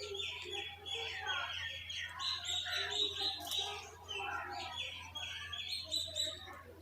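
Small birds chirping, with many short chirps overlapping in quick runs several times a second.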